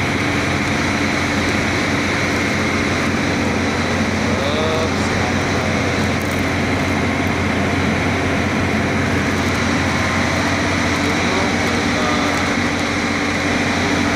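Caterpillar 3406 straight-six diesel engine running at a steady speed.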